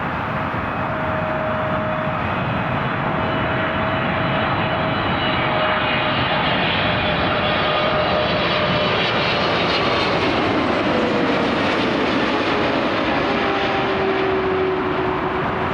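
Airliner flying past, its engine noise swelling and a steady tone in it sliding down in pitch as it passes, about two-thirds of the way through.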